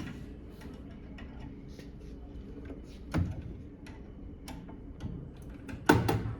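Small metal clicks and ticks of hand tools and fittings being worked on a furnace's gas valve, with a louder clunk about three seconds in and a stronger one near the end.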